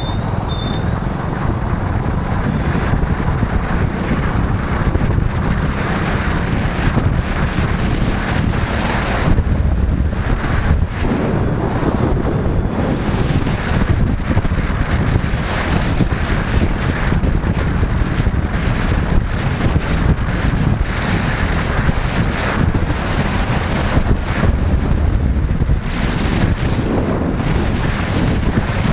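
Wind rushing over the microphone of a motorcyclist riding at speed: a steady, loud rush that thins briefly about ten seconds in and again near twenty-five seconds.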